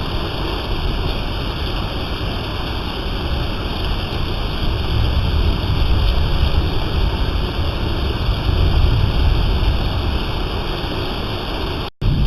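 Steady rain falling, a dense, even hiss with a strong low rumble. It cuts out for an instant near the end.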